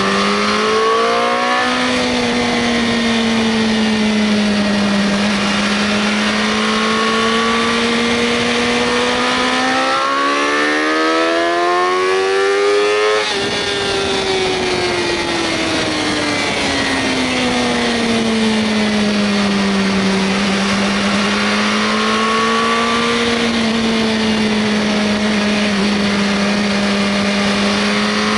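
Sport motorcycle's inline-four engine running on the road with constant wind noise, its pitch drifting gently up and down with the throttle. About ten seconds in it revs up hard for a few seconds, then drops sharply as it shifts up a gear.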